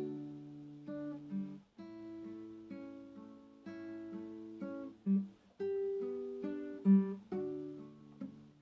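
Slow, gentle acoustic guitar music: notes and chords plucked a few at a time, each ringing out and fading before the next.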